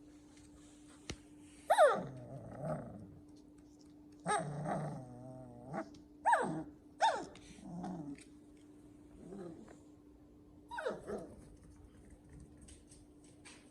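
Poodle puppies giving a series of short, high cries that fall in pitch, about seven of them, with a longer wavering one about four seconds in.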